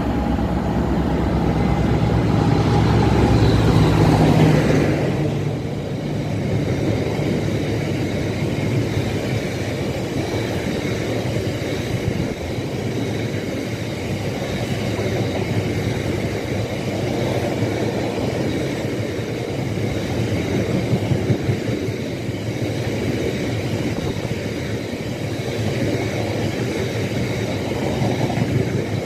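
Freight train passing close by: the diesel locomotive's engine runs loud as it goes by in the first few seconds, then a long train of biomass hopper wagons rolls steadily past, the wheels running on the rails.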